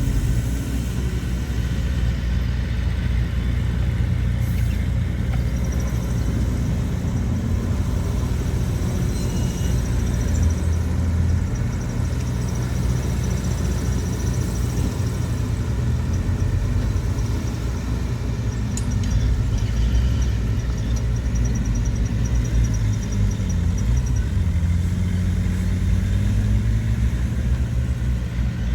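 Diesel engine of heavy earthmoving machinery running steadily, a deep even drone with no pauses. A faint, thin, high tone runs in the background through much of the middle.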